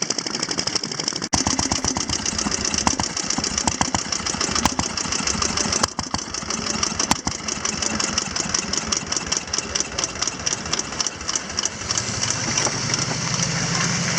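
Antique motorcycle engine running, its firing strokes heard as a fast, even beat. A deeper, steadier engine note comes in near the end.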